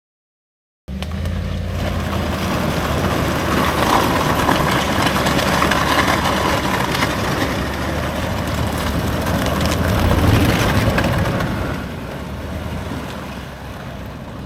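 A motor vehicle running: a steady low engine hum under broad road or wind noise, swelling twice and easing off near the end.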